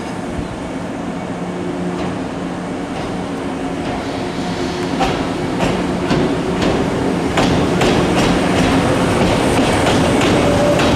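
Electric train running past on the rails, its wheels clacking rhythmically over rail joints and growing louder, with a steady hum and a motor whine that rises in pitch near the end.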